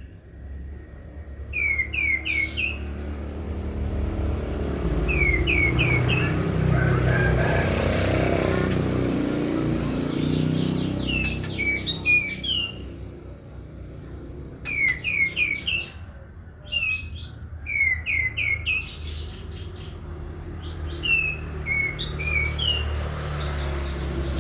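A katem songbird singing in repeated bursts of three or four quick, falling chirps, phrase after phrase, over a low background rumble that swells and fades about a third of the way in.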